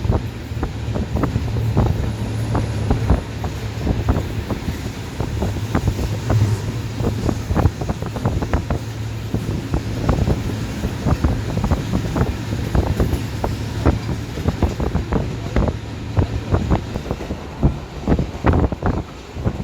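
Train running, with a steady low hum and irregular rattling and knocking, and wind buffeting the microphone. The hum fades out near the end.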